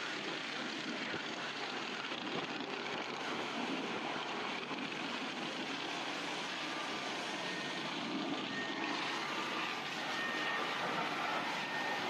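Steady rushing noise of car-wash equipment at work, with a few faint short tones in the second half.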